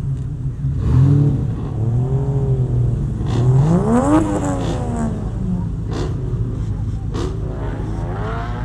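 Truck engine running with a steady low rumble, revved once: the pitch climbs for about a second, peaks about four seconds in, and falls back to idle.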